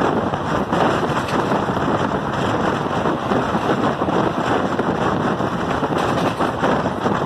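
Steady noise of a moving train heard from an open carriage window: wheels running on the rails, with wind buffeting the microphone.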